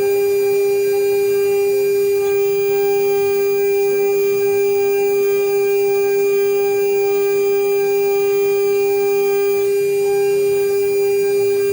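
CNC router spindle running at constant speed with a steady, loud whine, machining an aluminium seal plate.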